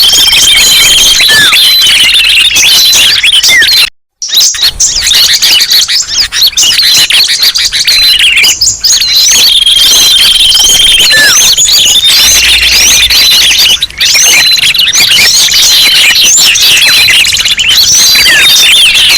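Bird-lure recording of many small songbirds calling at once: a dense, loud tangle of chirps, quick up-and-down whistled sweeps and short held notes. It cuts out for about half a second near four seconds in, then resumes.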